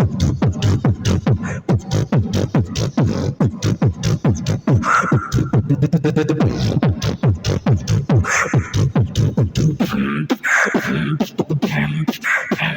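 Human beatboxing: a fast, steady rhythm of mouth-made kick drums and snares, with a few held pitched vocal sounds mixed in later.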